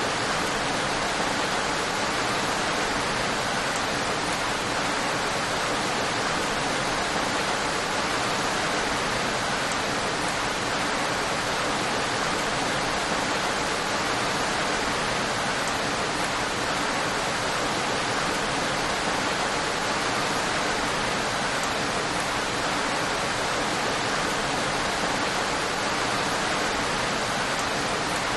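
Steady, unbroken rain: a constant dense hiss with no distinct drops, thunder or changes.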